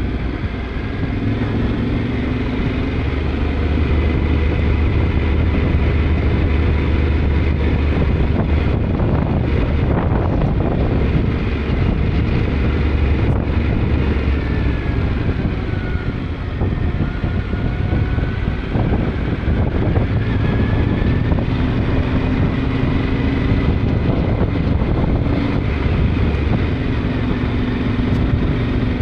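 Yamaha Ténéré 700's parallel-twin engine running while the motorcycle is ridden, its pitch shifting up and down with the throttle.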